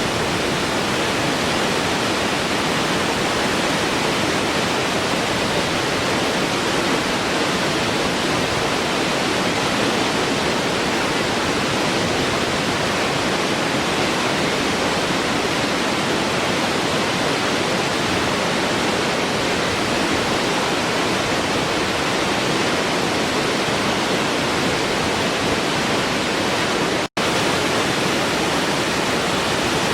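Waterfall rushing in a steady, unbroken roar of falling water, cut out for a split second near the end.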